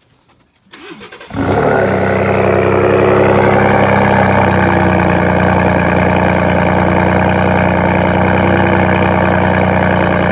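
2017 Ford F-150's 3.5-litre EcoBoost twin-turbo V6 cold-started through a Corsa Extreme cat-back exhaust with no resonator: a brief crank, it catches about a second and a half in, then settles into a loud, steady idle.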